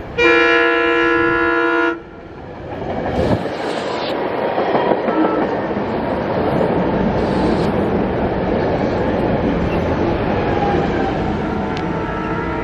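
A SEPTA electric commuter train sounds its horn in one loud blast of under two seconds, then rumbles past with wheels clacking over the rail joints, the noise building and then holding steady.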